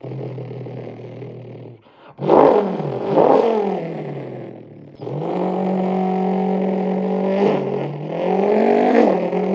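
A man's voice imitating the V8 engine of a Mercedes-Benz C63 AMG W204: a low idle note, two quick revs about two seconds in, a long held note, and another rev near the end.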